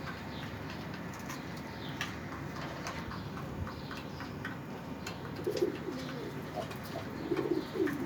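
A mix of ornamental birds calling: many short high chirps and clicks throughout, and two low, wavering calls in the second half.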